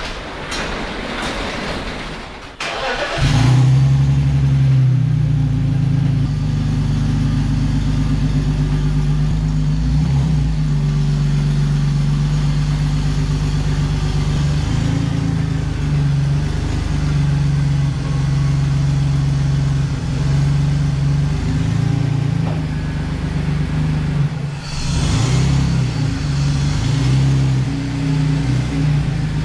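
BMW E46's engine starting about three seconds in, then running steadily.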